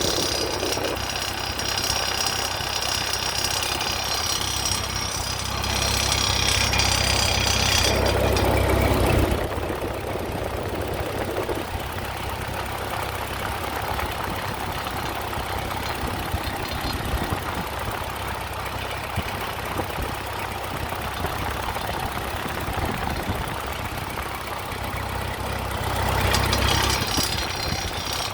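Ford 8N tractor's four-cylinder flathead engine running, making a strange noise whose cause the owner does not know. It grows louder for a few seconds about a third of the way in and again near the end.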